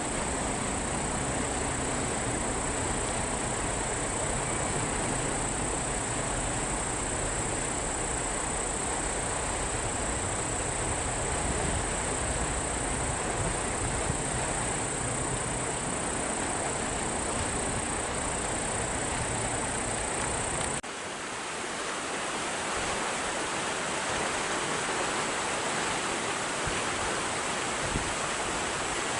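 Steady rushing aircraft noise with a low rumble beneath it and a constant high whine above. About three-quarters of the way in the sound changes abruptly: the low rumble drops away and a higher rushing noise continues.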